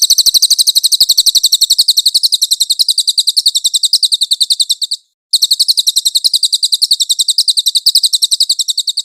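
Songbird masteran recording: a fast, high-pitched trill of rapid repeated chirps, about a dozen a second. It breaks off abruptly about five seconds in and starts again a moment later.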